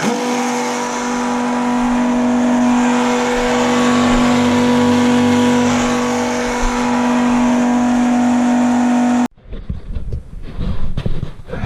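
Electric diesel fuel pump running steadily with a strong, even hum while refuelling a tractor. It starts abruptly and cuts off suddenly about nine seconds in.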